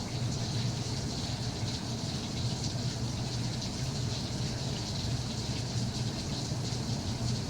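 Steady rain falling: a dense, even hiss of many small drops over a constant low rumble.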